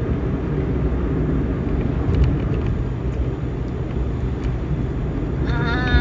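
Steady low rumble of a moving vehicle. A held pitched tone with many overtones starts near the end.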